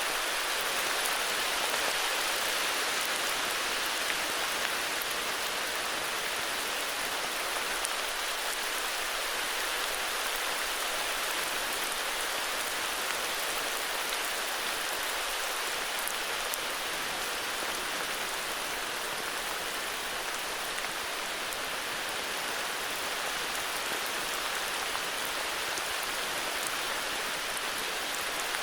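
Steady heavy rain falling in a forest, an even hiss of rain with the faint patter of individual drops.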